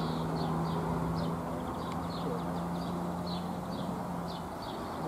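A small bird chirping, short sharp notes several a second, over a steady low hum.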